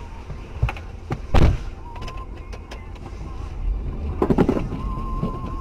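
Low rumble of a car driving, with several sharp knocks, the loudest about a second and a half in and a cluster of them near the end, and a thin wavering whistle-like tone twice.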